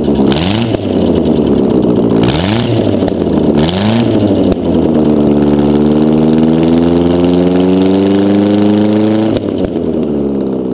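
Old Ford Escort petrol engine, run outside its car, revved in three quick blips, then held at a raised speed for about five seconds before dropping back to idle near the end. It is running rich, which the owner says makes it backfire whenever the throttle is eased off.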